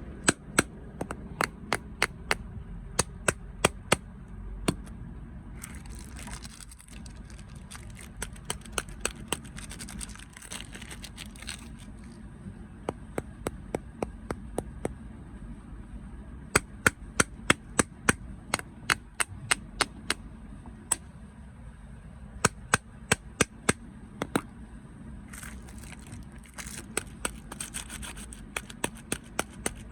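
Close-up crunching of crunchy snacks: runs of sharp cracks, about three to four a second, with stretches of crinkly rustling about six seconds in and again near the end.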